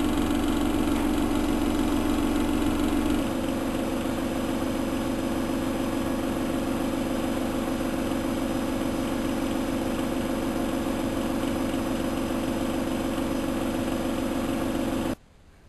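Bauknecht WA1400 Dolphin washing machine running with a steady motor hum; about three seconds in the hum shifts to a different pitch as the machine changes speed, and near the end the sound cuts off suddenly.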